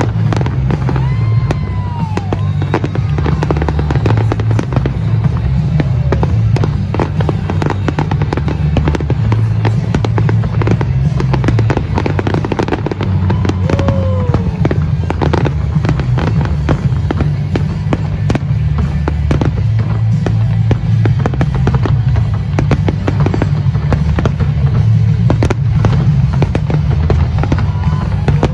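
Aerial fireworks display: a continuous barrage of shell bursts and crackling over a deep rumble, with a few falling whistles.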